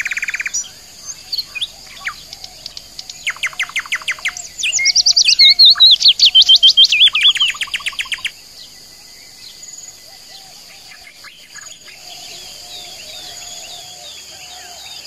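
Several songbirds chirping and singing. Near the start there is a fast trill, then a series of rapid repeated notes. Loudest of all is a run of sweeping whistled notes in the first half, and quieter chirping follows.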